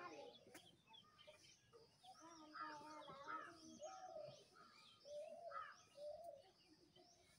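Faint birds chirping and calling, many short warbling chirps overlapping throughout.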